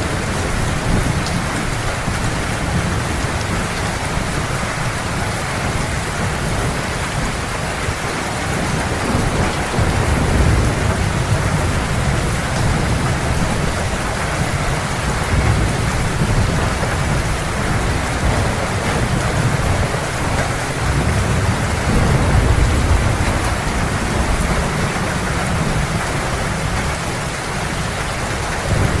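Heavy, steady rain with low rolling thunder rumbling underneath, swelling a few times.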